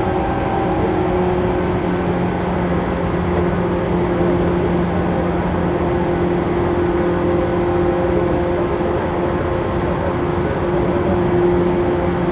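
Running noise of a JR 185 series electric train heard from inside the passenger car: steady wheel-and-rail noise with an even hum that holds its pitch, the train running at a constant speed.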